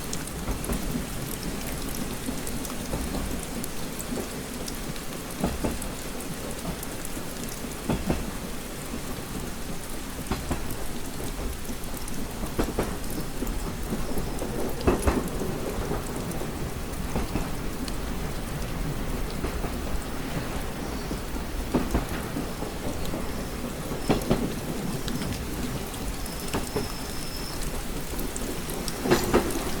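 Steady rain pattering on a window glass, with louder single drops tapping every second or two over a low rumble underneath.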